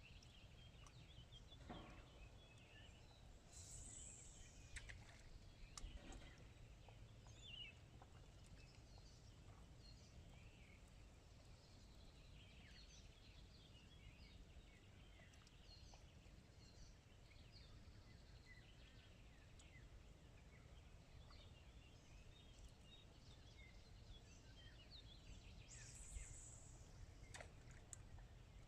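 Faint outdoor ambience: scattered small bird chirps over a low steady rumble, with a brief hiss twice.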